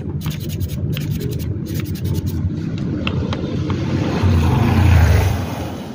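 Sandpaper rubbing and scraping on the metal shaft of a standing-fan motor, under a low rumble that swells to its loudest about five seconds in and then fades.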